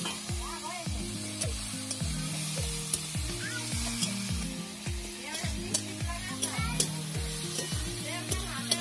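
Sliced onions sizzling in hot oil in a metal wok, with a metal spatula scraping and clicking against the pan. Background music with a steady beat of low thuds about twice a second plays throughout.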